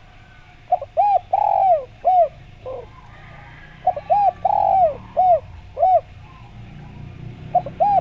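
Spotted dove (derkuku) cooing: two full phrases of quick, arched hoots with one longer drawn-out note in each, and a third phrase starting near the end.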